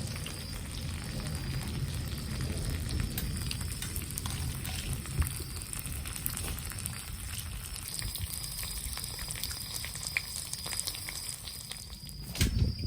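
Heavy rain pattering steadily, with a thunder rumble swelling up near the end.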